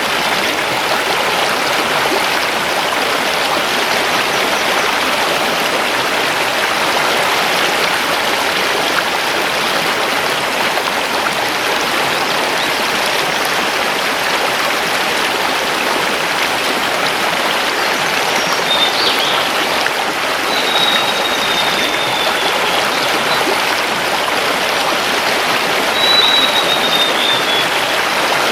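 Mountain river flowing over stones, a steady even rush of water. In the second half a forest bird gives a few thin, high calls that fall slightly in pitch.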